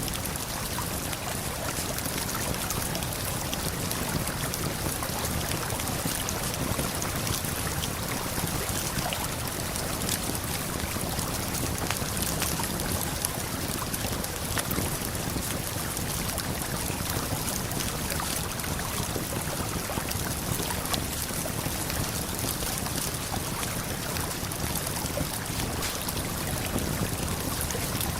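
Steady rushing of a waterfall and flowing river, with scattered faint crackles of a campfire.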